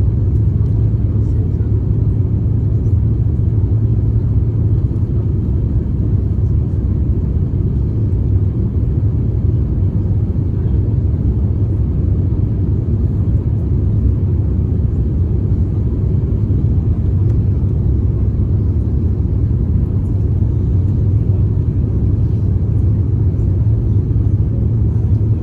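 Steady low rumble of cabin noise inside an Airbus A350-900 airliner: engine and airflow noise with no sudden changes.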